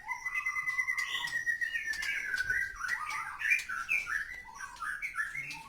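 White-rumped shama (murai batu) singing: one long clear whistle that slides slightly down, followed by a quick run of short varied notes.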